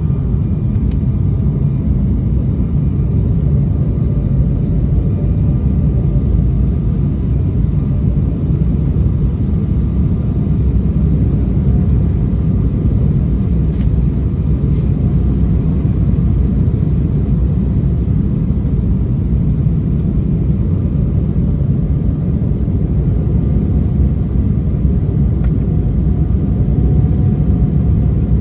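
Steady low drone of engine and airflow noise inside the cabin of an Embraer E190 airliner on approach, with a faint steady hum above the rumble.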